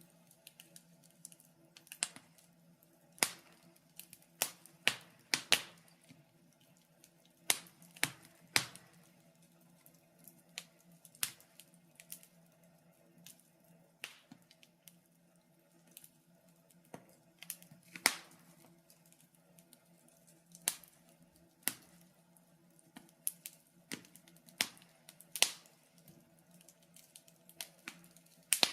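Wood fire crackling in a fireplace, with irregular sharp pops and snaps every second or so over a faint steady low hum.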